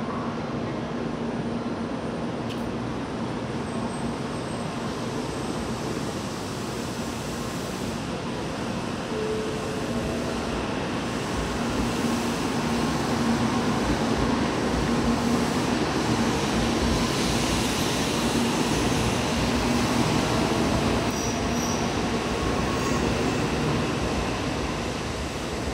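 N700A Shinkansen train pulling out of the platform: a steady electric hum and rolling wheel noise that grow louder about halfway through, then ease a little near the end.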